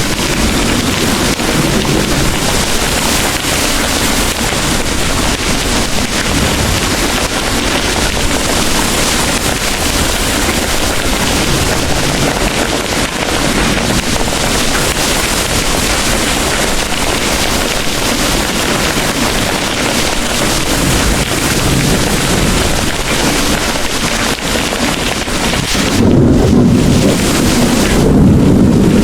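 Heavy rain pouring steadily, with a low rumble of thunder swelling near the end.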